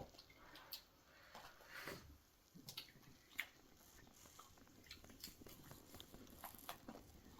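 Faint scattered clicks and rustles over low room tone, close to near silence.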